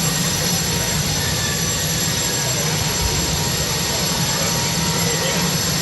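A loud, steady mechanical drone that does not change.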